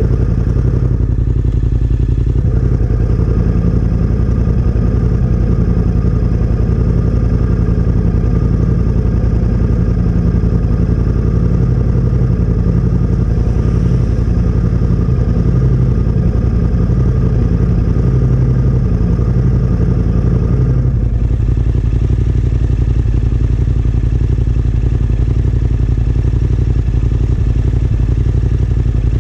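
Yamaha Ténéré 700's parallel-twin engine running steadily through a Yoshimura R-12 aftermarket exhaust, its tone changing about 21 seconds in.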